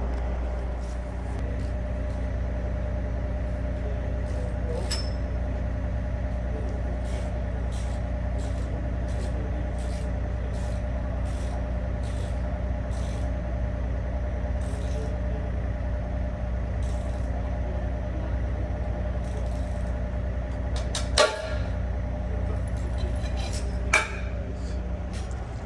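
An engine running steadily at an even speed. Near the end there are two sharp knocks, about three seconds apart.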